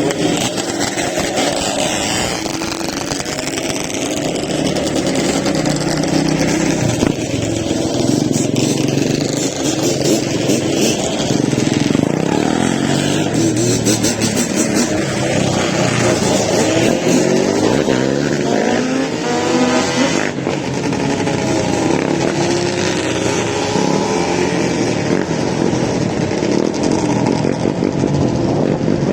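Several ATV (four-wheeler) engines running and revving, their pitch rising and falling, with a clear rising rev about two-thirds of the way through.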